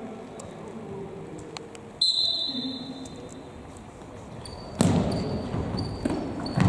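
Football being played: a short, high whistle blast about two seconds in, then two loud thuds of the ball being kicked, the first about five seconds in and the second at the very end, with faint players' shouts.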